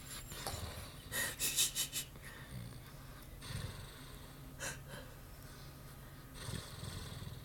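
A sleeping dog snoring in uneven breaths, one every second or two, the loudest about a second in.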